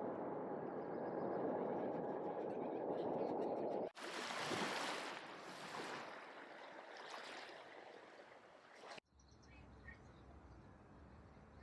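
Outdoor ambient rushing noise in edited cuts: a steady, dull rush that switches abruptly about four seconds in to a brighter, hissier rush that slowly fades. About nine seconds in, it cuts to quieter background with a low hum and a few faint bird chirps.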